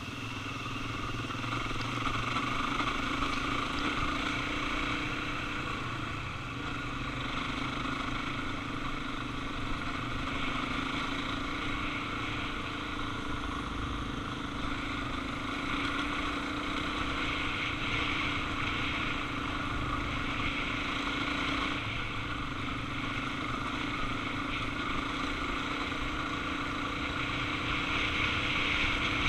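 Suzuki DR-Z400 single-cylinder motorcycle engine running at a steady cruise under a continuous rush of wind noise. The engine note dips and shifts slightly a couple of times.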